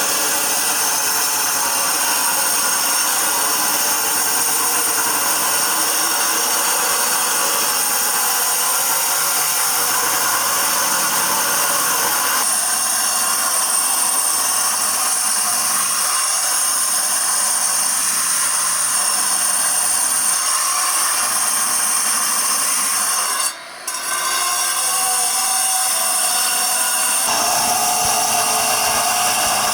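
A power tool working stone, making a loud, steady grinding noise. The sound drops out briefly about three-quarters of the way through and changes in tone shortly after.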